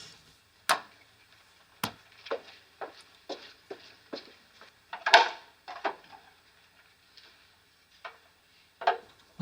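About ten separate knocks and clicks at uneven spacing, the loudest about five seconds in: a person moving about a small room and handling objects.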